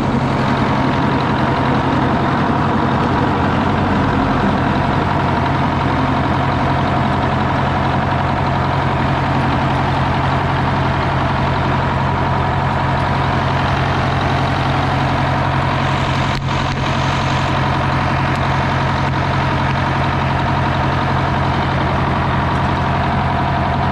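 Detroit Diesel power unit of a hydraulic circle sawmill running steadily, with an even engine note throughout.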